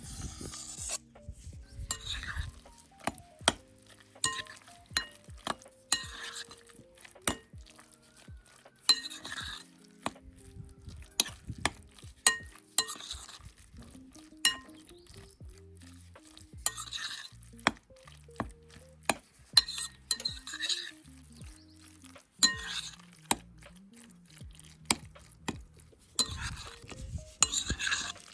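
Kitchen utensil work: repeated scraping strokes, each about a second long, with sharp clinks and taps of a spoon against a bowl or dish, over quiet background music.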